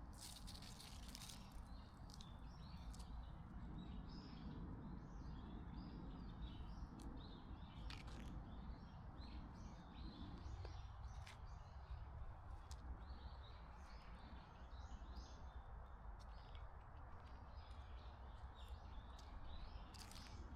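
Faint outdoor birdsong: many small, scattered chirps from several birds over a low, steady background hiss. A few brief scratchy noises cut in, one near the start, one midway and one at the end.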